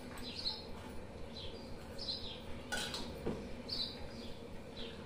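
A small bird chirping over and over, short falling high chirps about once a second. Near the middle come a couple of light clinks of steel dishes as a steel bowl and plate are handled while dough is kneaded.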